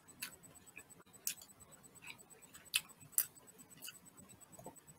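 Close-miked mouth sounds of chewing a sticky palitaw rice cake: faint, irregular sharp clicks and wet smacks, about one or two a second.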